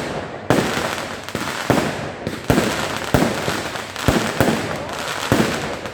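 Fireworks display going off: a rapid series of sharp bangs from shells bursting, about two a second, with crackling and echo trailing after each.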